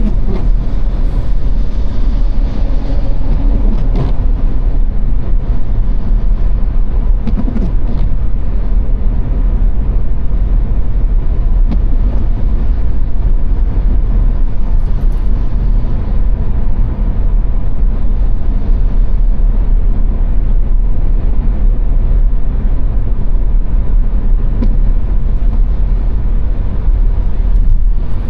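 Car driving at speed on the Autobahn: a steady low rumble of road and wind noise.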